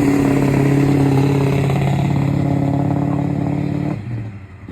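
A car engine running at a steady, unchanging speed as the car pulls out, its sound dropping away sharply about four seconds in.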